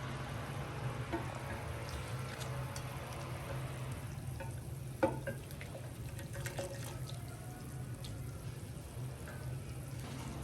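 Water and liquid sounds, dripping and splashing, over a steady low hum, with one sharp knock about five seconds in.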